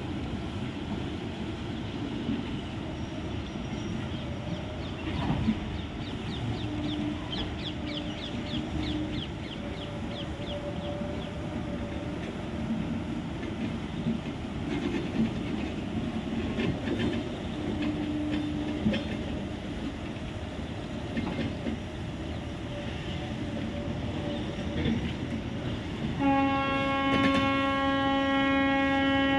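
Express-train passenger coaches rolling slowly through a coach-washing plant's water spray: a steady rumble of wheels on rails, with the wheels squealing briefly now and then. A little before the end, a train horn blows one long steady note, the loudest sound.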